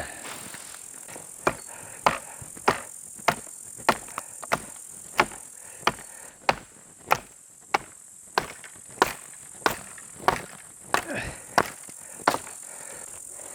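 Repeated sharp blows of a tool striking at an even pace, about three every two seconds, some eighteen in all, starting about a second and a half in and stopping near the end, over a steady high hiss.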